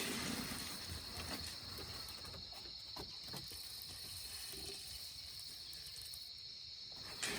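Insects chirring in a steady high drone, with a few light knocks scattered through it.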